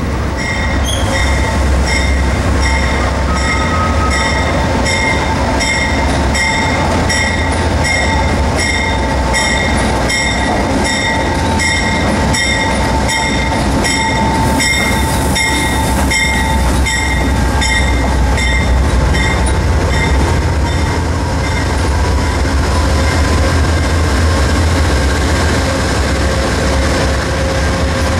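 Amtrak diesel passenger locomotive running deep and steady as the train moves along a station platform, its bell ringing in even strokes about two a second until about 21 seconds in. The rumble of the locomotive and cars carries on after the bell stops.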